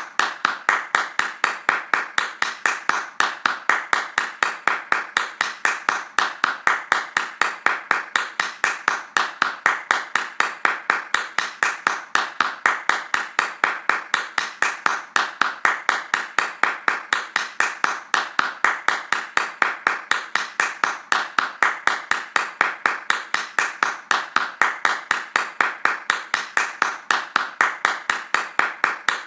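Hands clapping fast in an even, unbroken rhythm, several sharp claps a second.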